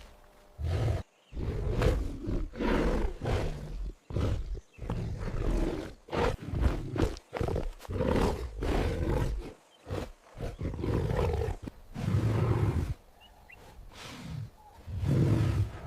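A big cat giving a long series of short, rough roars and growls, each under about a second, with brief pauses between them.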